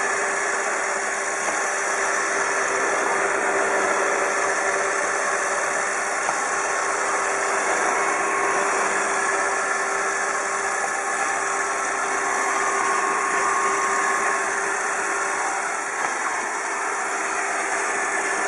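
iRobot Roomba 780 robot vacuum running: a steady whirring hum of its vacuum motor and brushes.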